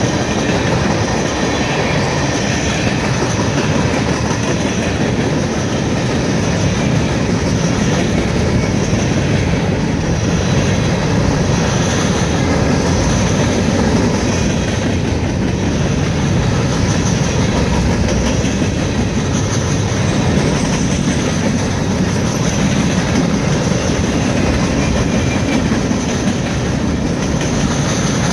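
Norfolk Southern freight train rolling past, its cars' steel wheels running steadily and loudly on the rails.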